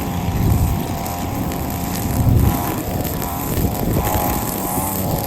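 Petrol lawn mower engine running steadily while mowing, its note wavering slightly.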